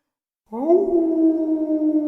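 An animal's long, drawn-out call, starting about half a second in: it rises briefly in pitch, then holds a steady tone.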